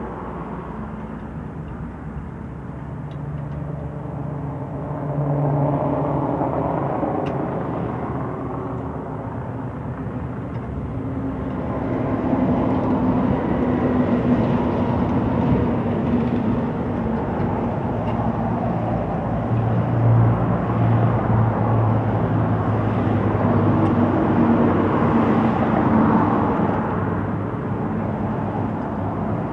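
A steady engine drone with a low hum that shifts in pitch now and then, growing louder about midway.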